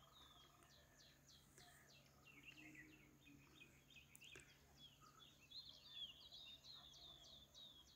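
Faint birds chirping in the background: a quick run of short, high chirps, one after another, over near-silent room tone.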